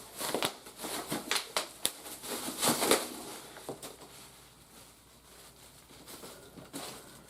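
Plastic toy packaging being handled during an unboxing: irregular crinkling and clicking, busiest in the first three seconds, then a few scattered clicks.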